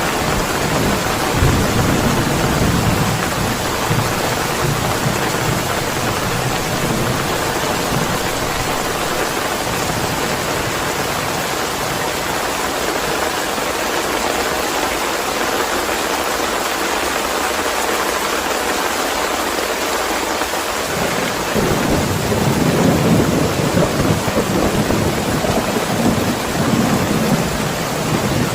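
Steady heavy rain with rolling thunder, rumbling during the first few seconds, fading, then rumbling again from about two-thirds of the way through.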